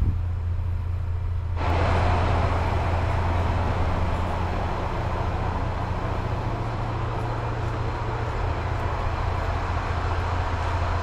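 Diesel train running: a steady low engine hum, joined about a second and a half in by a louder rushing noise that holds until it cuts off abruptly at the end.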